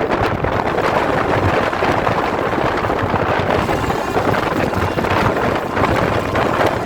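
Train in motion heard from on board: a steady, loud rumble of wheels on rails mixed with wind on the microphone.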